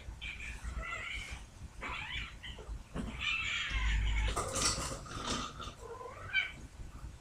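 Male domestic cats yowling in a series of drawn-out calls while one cat tries to mount the other.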